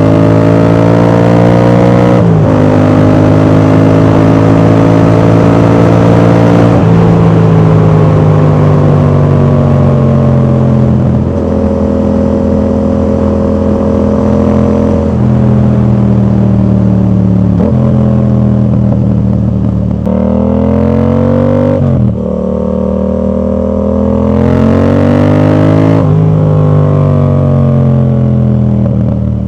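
Yamaha MT-07 parallel-twin engine running loud through an aftermarket exhaust with its dB killer fitted. The pitch climbs with throttle and drops sharply at several points, as with gear changes, and rises in quick revs near the end.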